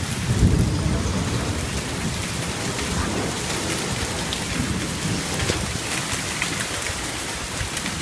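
Heavy thunderstorm downpour, rain pouring steadily, with a low rumble of thunder in the first second or so.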